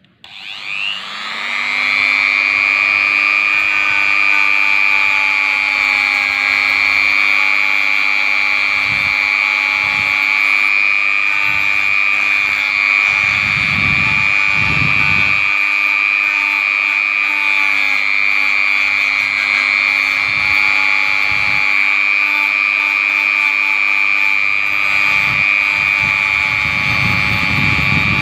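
Motor-driven carbon-cleaning tool for engine pistons switched on. It winds up over about two seconds to a steady high whine, with a few brief low rumbles partway through and near the end.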